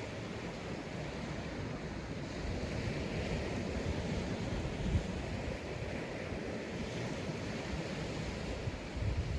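Sea waves breaking and washing onto a sandy beach, a steady surf wash that swells a little around the middle, with wind buffeting the microphone in low gusts.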